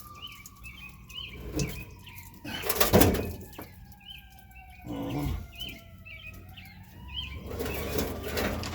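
Knocks and scrapes from a plastic kayak hull being tipped and rolled, the loudest about three seconds in and another about five seconds in. Small birds chirp over it, and a thin whistling tone slides slowly down and then back up.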